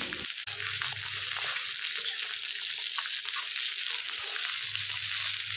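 Shredded cabbage and chopped capsicum sizzling in hot oil in a karahi, a steady frying hiss with small ticks and scrapes as the vegetables are stirred with a spatula.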